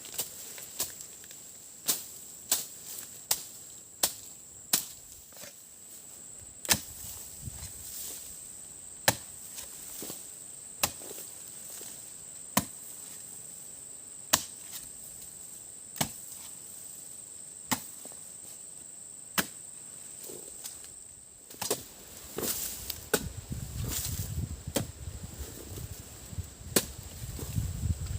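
Wood being chopped with a blade: sharp single strokes, irregular at first, then a steady stroke about every one and a half to two seconds. Insects drone steadily at a high pitch behind, and near the end there is denser rustling and knocking.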